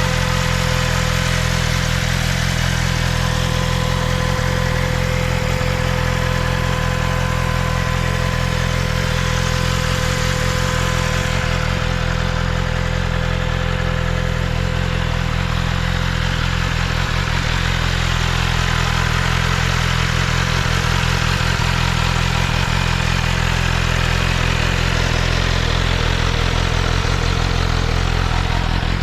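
BMW M 1000 RR's inline-four engine idling steadily through an Akrapovič exhaust.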